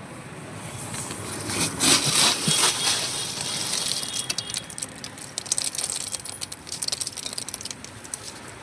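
Crunching and crackling of a crispy fried snack, with a couple of louder crunchy rustles about two seconds in, then a run of fine crackles.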